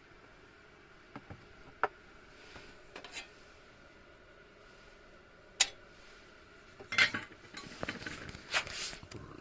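Cookware and utensils being handled: a few separate sharp clinks, then a busier run of clattering near the end.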